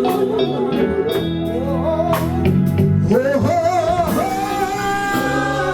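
Live gospel band with drums and a sung vocal line, the voice sliding and wavering with vibrato over held bass and keyboard notes.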